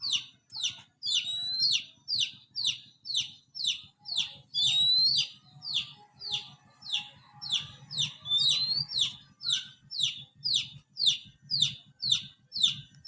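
Oriental magpie-robin (kacer) calling in a fast, even run of short, high notes that sweep downward, about two or three a second, with a rising whistle breaking in three times; a challenging call aimed at a rival. A faint low hum runs underneath.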